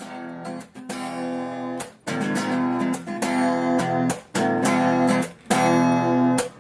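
Guitar strumming chords in short, even phrases with brief breaks between them: the instrumental introduction of a folk-style song.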